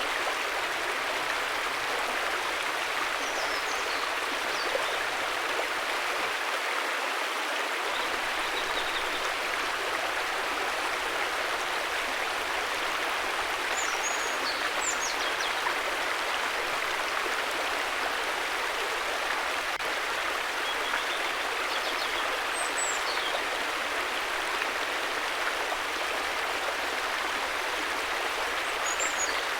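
River water flowing: a steady, even rushing with no breaks.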